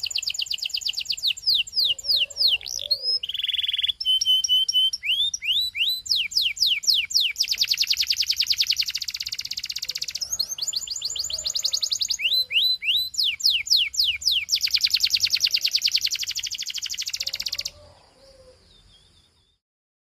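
Belgian canary singing: fast trills and quick runs of repeated down-sweeping high notes. The song stops a couple of seconds before the end, trailing off in a few faint notes.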